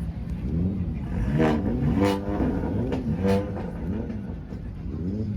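A Mopar muscle car's engine being revved repeatedly in quick blips, its pitch rising and falling with each one. The three strongest revs come near the middle.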